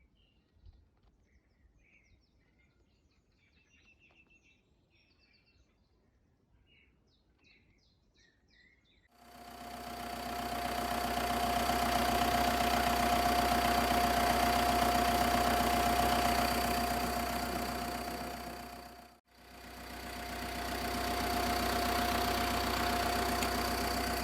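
Faint bird song, then about nine seconds in a loud, steady engine drone starts abruptly. It swells and fades, breaks off for a moment near the nineteenth second, and comes back.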